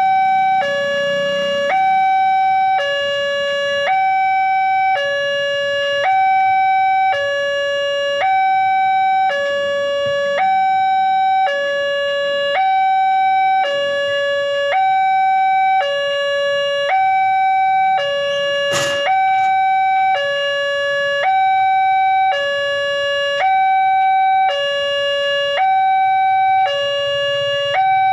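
Railway level-crossing warning alarm sounding continuously: two electronic tones alternate, high then low, each held about a second, warning that a train is approaching. A single sharp click cuts through about nineteen seconds in.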